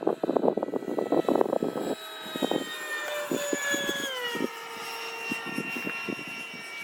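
Electric ducted fan of a Freewing F/A-18 90mm RC jet whining in flight, its pitch dropping about four seconds in. Wind buffets the microphone with gusty thumps, heaviest in the first two seconds.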